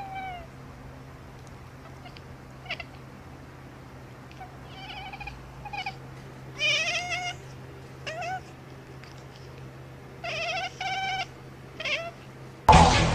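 Domestic cat meowing: a run of short, separate meows a second or more apart, some in quick pairs, the loudest about seven seconds in. Loud music cuts in suddenly just before the end.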